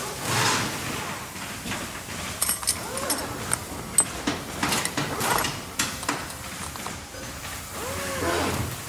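Steel stamped beadlock wheel parts for an RC crawler being handled on a workbench. A run of sharp metal clicks and clinks comes through the middle, among softer handling rustle.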